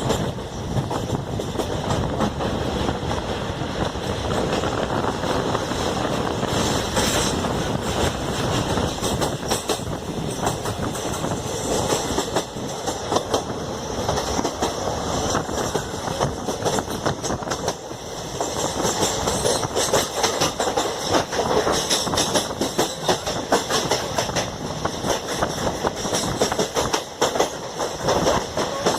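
Passenger train running along the track, its wheels clattering over the rail joints above a steady rumble.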